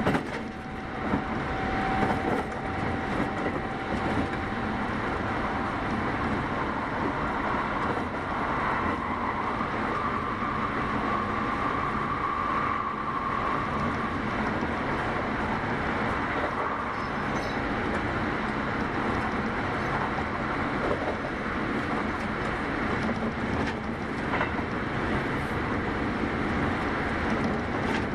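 Running noise of a Kintetsu 8810 series electric train heard from inside the car at speed: a steady rumble of wheels on rail, with a faint held whine from about nine to fourteen seconds in.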